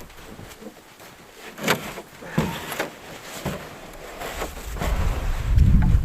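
Shovel digging and scraping packed snow, with several short, sharp chops. A low rumble of wind on the microphone builds near the end and becomes the loudest sound.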